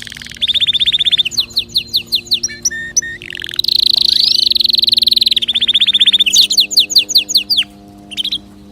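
Canary singing: fast rolling trills of rapidly repeated notes, a long, rapid trill a few seconds in, then a run of quick downward-sweeping notes. The song stops about a second before the end, after two short notes.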